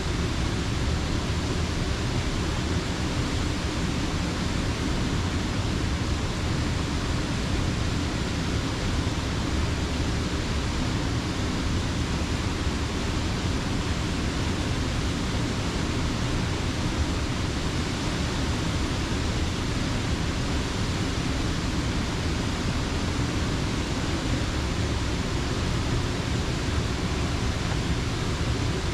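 Creek water spilling over a mill dam, a steady, unbroken rushing with no change in level.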